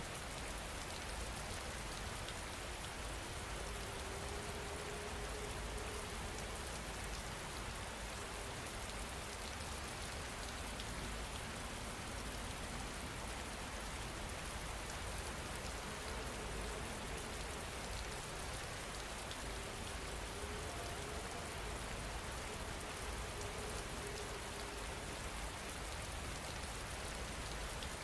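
Steady rain falling, an even hiss of many drops with no change in level.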